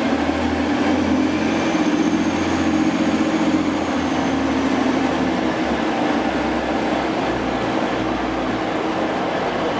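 Diesel train running at a station platform, a loud steady engine drone with a faint high whine in the first few seconds.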